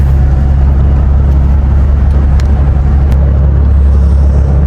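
Steady low engine and road rumble inside a car's cabin.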